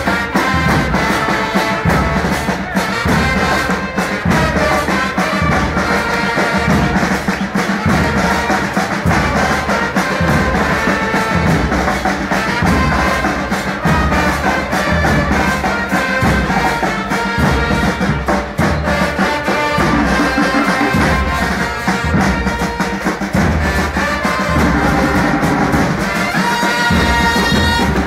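Football supporters' brass band playing a chant tune on trumpets and trombones over a steady bass-drum beat.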